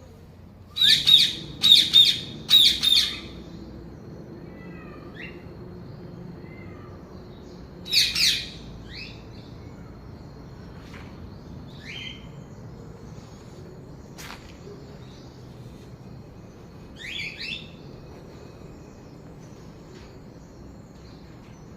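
Birds calling: a quick run of loud, harsh calls in the first few seconds, another loud call about eight seconds in, a short cluster near the end, and scattered fainter chirps in between.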